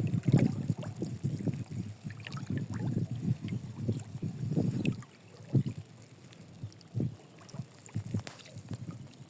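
Fish thrashing in water inside a net, giving irregular splashes and sloshes. The splashing is busy for about the first half, then thins to a few scattered splashes.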